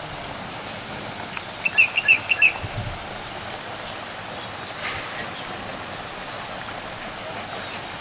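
A bird gives a quick run of about six short, high chirps about two seconds in, over a steady outdoor hiss.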